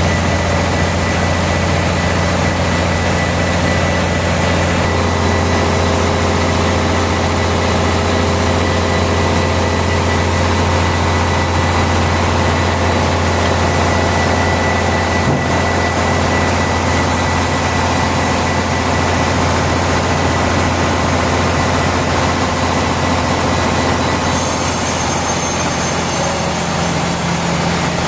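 Heavy sawmill machinery running steadily, with a low engine hum and a thin steady whine above it; a higher hiss joins near the end.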